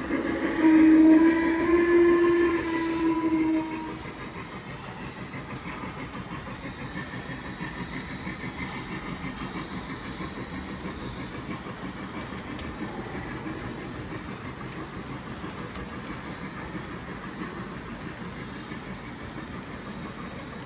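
MTH Premier Chessie Berkshire O scale model steam locomotive sounding its whistle through its onboard sound system, a steady pitched blast that ends about four seconds in. After that, the model train runs around the three-rail layout with a steady, rhythmic rolling noise.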